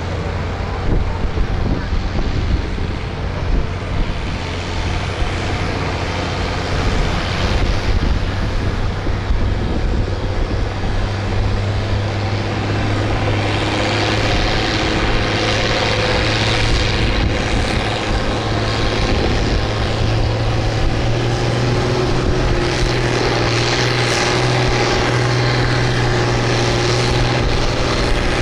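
Farm tractor engine running hard under load while pulling a weight sled: a steady, loud drone whose pitch climbs a little from about halfway through.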